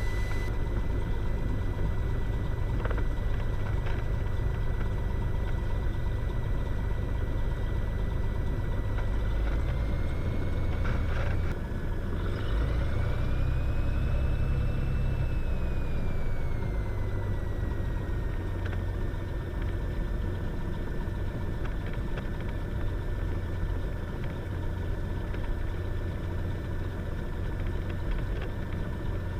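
Cessna Skylane's single piston engine running at low power while taxiing, heard from inside the cockpit as a steady low drone. A thin whine rides on top and rises, then falls, in pitch about halfway through.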